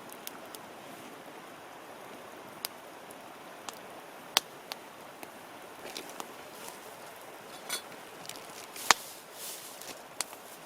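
Wood campfire crackling: sharp, irregular pops every second or so over a steady soft hiss, the loudest pop about nine seconds in.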